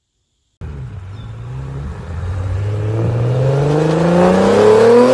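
2007 BMW 335i's twin-turbo N54 inline-six accelerating hard, its pitch and loudness rising steadily through one gear. It starts abruptly about half a second in.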